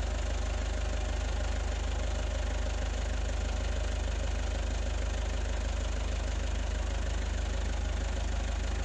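An engine running steadily at idle: a low, even drone with a fast, regular pulse.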